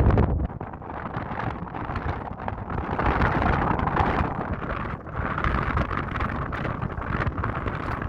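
Jawa 350 twin-cylinder two-stroke motorcycle engine running, with wind buffeting the microphone. Its heavy low rumble drops sharply about half a second in.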